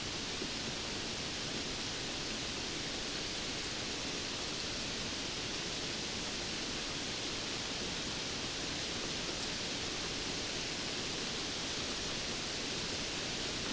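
Steady rainfall: an even, unbroken hiss of rain with no distinct drops or thunder standing out.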